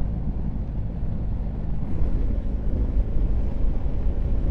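Wind buffeting the microphone while riding a BMW R1250 GS motorcycle, a steady dense rush heavy in the lows, with the bike's boxer-twin engine running faintly underneath.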